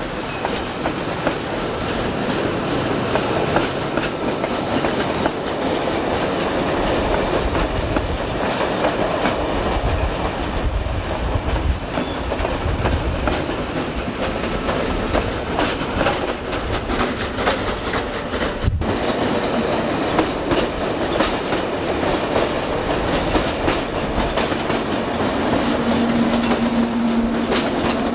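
Train running along the track, its wheels clicking over the rail joints in a continuous clickety-clack. The sound breaks off for an instant about two-thirds through, and a steady low hum comes in near the end.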